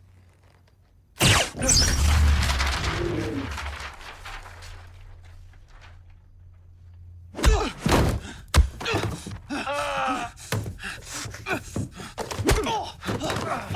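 Action-scene sound effects: a sudden loud burst about a second in that fades over several seconds, then a rapid run of thuds and impacts.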